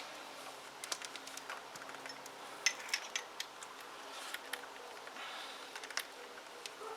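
Light, scattered clicks and taps of small metal parts and tools being handled, over a faint steady hum.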